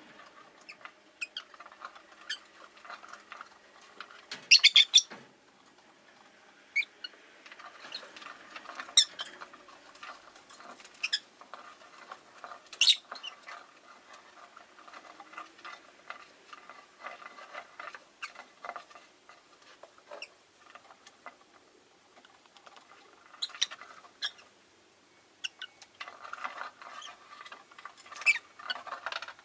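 Rosy-faced lovebirds chirping: soft scattered chatter with sharp, high squeaks now and then, the loudest a quick run of shrill calls about four seconds in.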